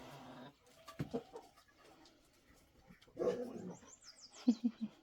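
A dog making a few short, low whining sounds, with a quick run of high chirps just after four seconds in.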